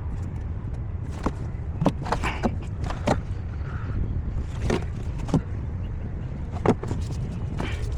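A steady low rumble with several sharp clicks and knocks scattered through it.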